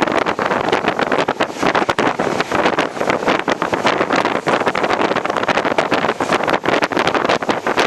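Passenger train running at speed, heard from on board: a dense, irregular rattle and clatter from the coach and wheels on the track, with wind buffeting the microphone.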